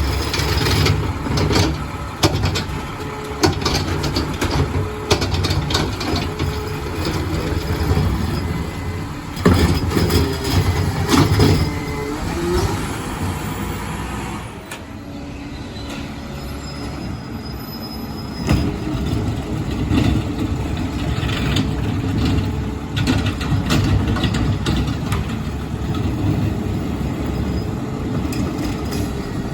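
Diesel garbage truck with a McNeilus body on a Mack chassis, running steadily, with a string of sharp knocks and clanks over roughly the first twelve seconds. The engine drops quieter for a few seconds about halfway through, then runs on.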